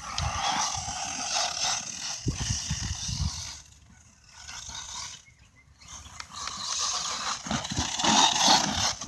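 Redcat MT10e 1/10-scale electric RC monster truck running over rough dirt: its drivetrain and tyres on the ground make a hissing, gritty noise. The noise drops away twice to near quiet in the middle and comes back near the end.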